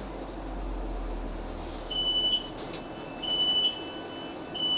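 Class 458 electric train's door-release warning beeps as it stands at the platform: three short, high, steady beeps, roughly every second and a half, starting about two seconds in. The low running rumble of the train dies away just before the beeps begin.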